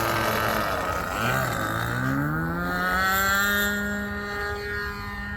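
RC model biplane's engine and propeller being throttled up: the note dips briefly about a second in, then climbs to a higher pitch and holds steady.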